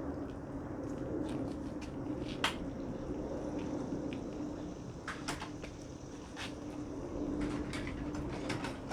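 Rummaging through a tool drawer: a series of sharp clinks and clatters of hand tools, over a steady low hum.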